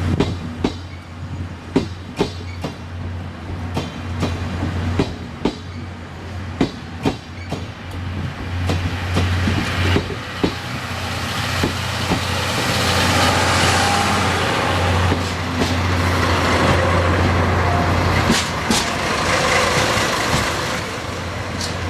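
A train hauled by a D51 steam locomotive with 12-series passenger coaches rolling slowly into a station platform: a run of sharp clacks as the wheels cross rail joints over a steady low hum, then a long hiss rising about halfway through and easing near the end as the train comes to a stop.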